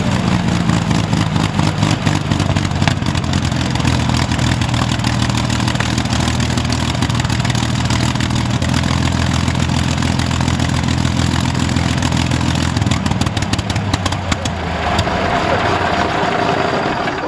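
Rolls-Royce Merlin V12 aero engine idling steadily with a low, even note, then running down and stopping near the end, which draws applause straight after.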